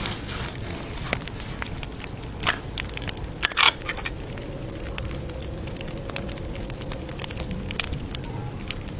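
Campfire crackling: a steady run of small snaps, with two louder pops a few seconds in.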